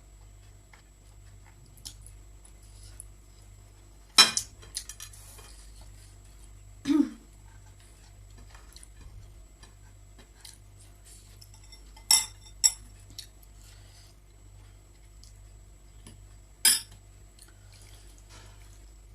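Cutlery clinking against a dish about five times: sharp single clinks a few seconds apart, two of them close together, over a faint steady hum.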